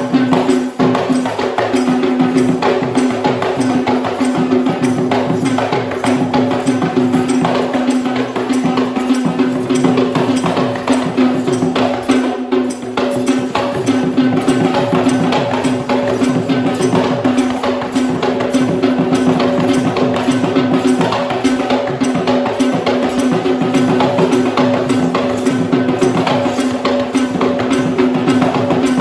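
Sri Lankan traditional drums played in fast, dense rhythm to accompany a dance, over a steady held note.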